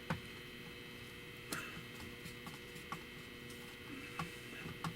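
Faint steady electrical hum from the running power-station and line-conditioner setup, with a few light clicks and knocks scattered through it as a plug and cord are handled.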